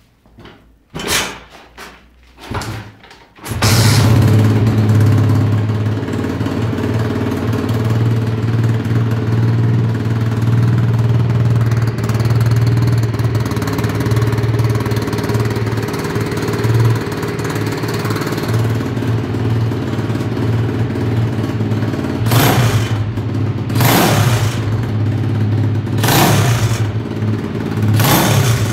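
Honda 140 cc pit bike's single-cylinder four-stroke engine sputtering twice, then catching about three and a half seconds in and idling steadily. Near the end the throttle is blipped four times, each rev rising and falling back to idle.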